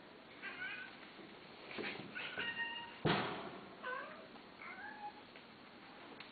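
Cat meowing: a series of short, high meows, some bending up and down in pitch, with a louder thud about three seconds in.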